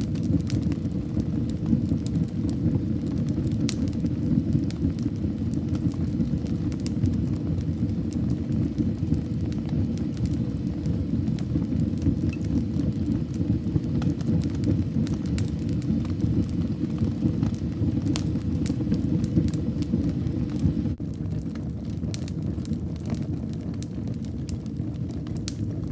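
Fire burning in a fireplace: a steady low rumble of flames with scattered crackles and pops. It grows a little softer about 21 seconds in.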